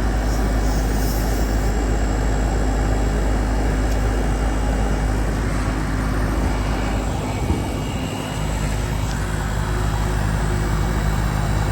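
Old Trane 2-ton air-conditioner condensing unit running with a steady hum from its compressor and condenser fan. The system has no refrigerant left, so the compressor is pulling the suction side down into a vacuum.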